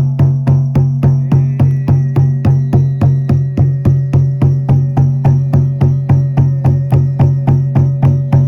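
Frame drum (buben) beaten in a steady, even rhythm of about three strokes a second, over a continuous low ringing drone; a thin high tone joins about a second in.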